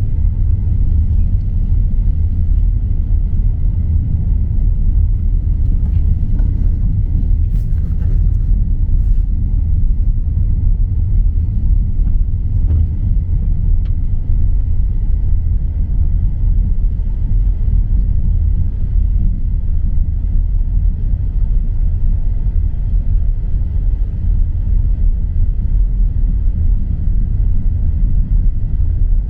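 Steady low rumble of a moving motor vehicle, with a few faint clicks about a third of the way in.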